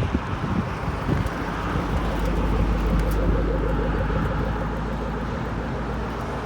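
A motor vehicle passing by: a steady low hum that swells to a peak about halfway through and then fades.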